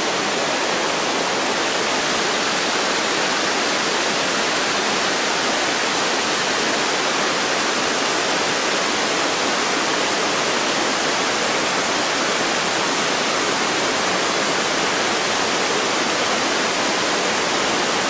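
Steady rush of fast-flowing creek water tumbling over rocks, an even hiss with no breaks.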